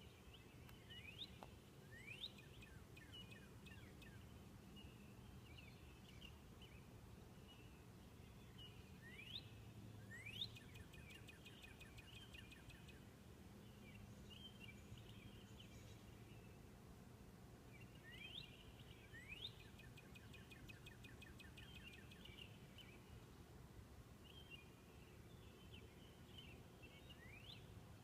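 Northern cardinal singing: pairs of quick rising whistled notes, repeated about every nine seconds, with softer chirping between the phrases over a low steady background rumble.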